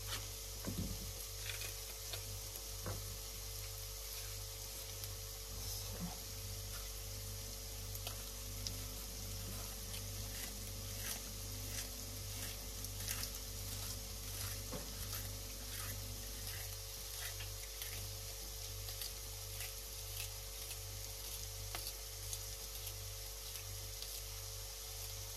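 Chopped onions frying in butter in a frying pan, a steady sizzle with scattered small pops and ticks over a low, even hum.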